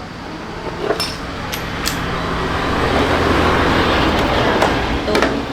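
A steady mechanical hum that swells to its loudest a few seconds in and then eases, with a few sharp metal clinks about a second in.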